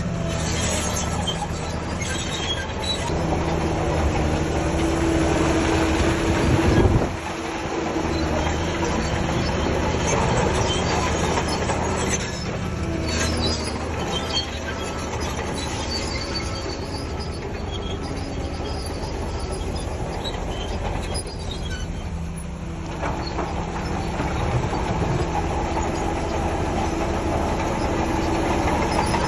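Crawler bulldozer's diesel engine running under load, with the metallic clatter and squeal of its steel tracks. The engine and a whine grow louder a few seconds in, then drop off suddenly about seven seconds in.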